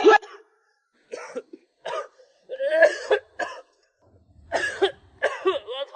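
A person's voice in about six short bursts, each under a second, with silent gaps between them.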